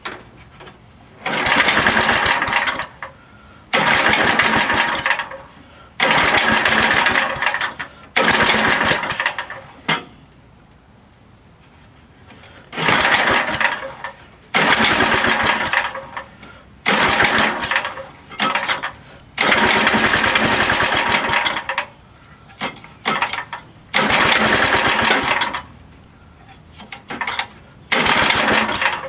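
A 7 hp Tecumseh small engine being cranked over in repeated bursts of one to two seconds, about ten times, with a fast pulsing within each burst, and not catching. This is cold-start cranking of an engine that will not fire yet.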